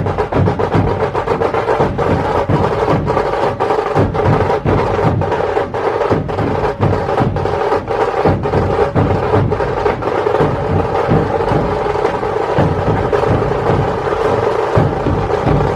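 Percussion-heavy music: fast, steady drumming with sharp strokes over a sustained tone.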